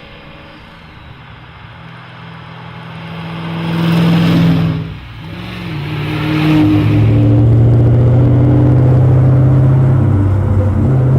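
Maserati Ghibli SS's 4.9-litre V8 engine under acceleration, getting louder up to about four seconds in. It dips briefly near five seconds, then runs loud and steady at a lower pitch.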